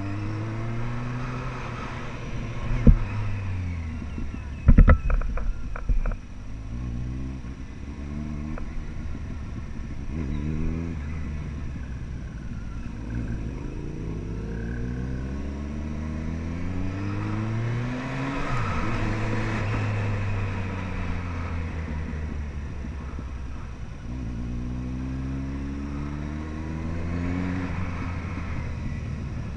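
Ducati Monster 795's air-cooled V-twin engine under way, pulling up through the gears: the pitch climbs again and again and drops at each shift. A few sharp, loud thumps come about three and five seconds in.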